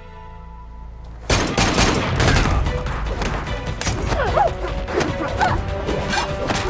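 Dramatic score, then about a second in a sudden burst of rapid, sustained gunfire: many shots in quick succession over the music.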